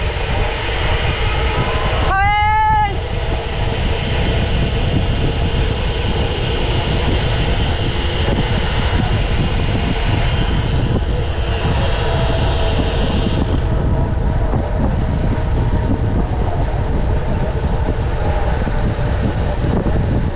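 Wind buffeting the microphone, with tyre and road rumble, as a mountain bike is ridden along at speed. About two seconds in, a short whine rises and falls in pitch.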